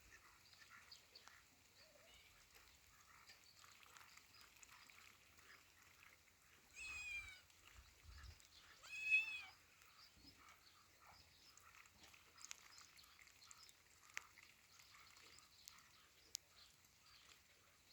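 Faint farmyard background with two short, wavering animal calls, about seven and nine seconds in.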